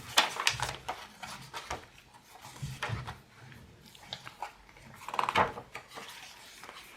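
Paper and card pages of a handmade junk journal rustling and tapping as they are handled and flipped, with several sharp clicks, the loudest right at the start and about five seconds in.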